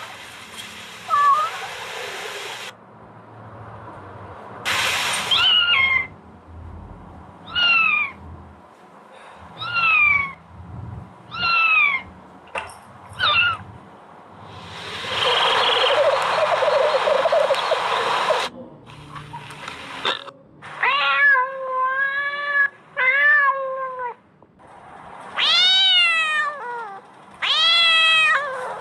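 Kittens meowing over and over: a dozen or so short meows that rise and fall in pitch, with one longer, harsher, noisy cry in the middle.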